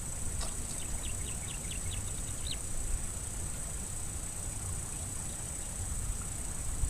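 A bird calling a quick run of short, high notes, about four a second, for the first couple of seconds, the last note a little longer and rising. Under it a steady high insect drone and a low rumble.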